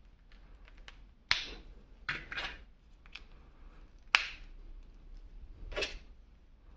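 Plastic toy parts and packaging being handled: two sharp clicks, a few seconds apart, with short rustling scrapes between and after them.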